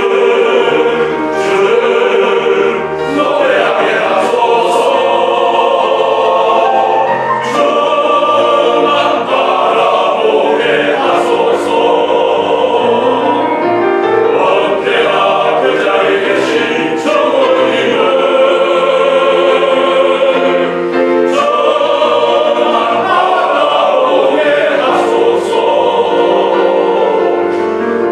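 A church vocal ensemble of elders sings a congratulatory hymn-style song in sustained, multi-part choral harmony.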